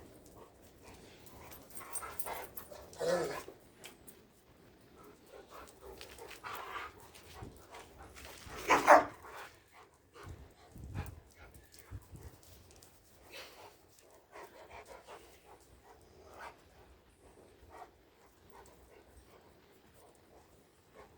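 A dog making excited noises: scattered short sounds, with one loud sound in two quick parts about nine seconds in.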